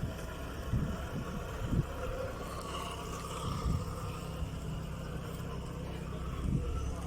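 Mk1 VW Golf running steadily with a low hum, with a few short low thumps.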